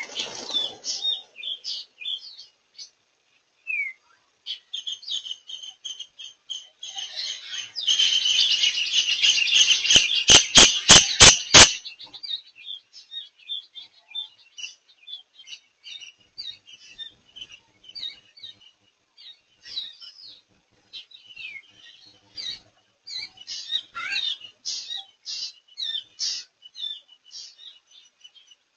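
Wild birds chirping and calling in short notes. The calls thicken into a dense, loud chorus about eight seconds in, which ends just before twelve seconds in a quick run of about eight sharp clicks.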